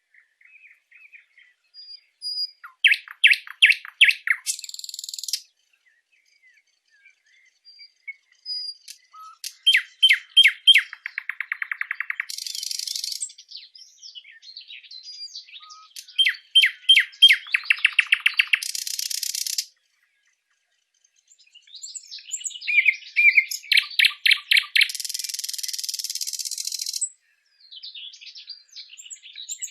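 A songbird singing in repeated phrases every six seconds or so: a fast run of sharp, ringing notes that runs into a dry, buzzy trill, with short pauses between phrases.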